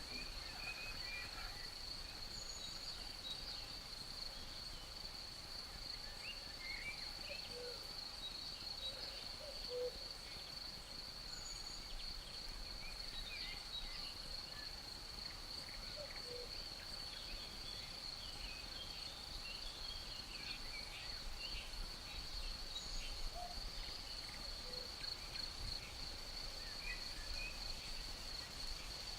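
Forest ambience: crickets keeping up a steady high trill, small birds chirping and twittering here and there, and a cuckoo's low call notes now and then.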